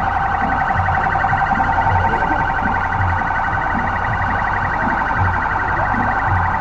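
Police vehicle siren sounding continuously in a fast, even warble.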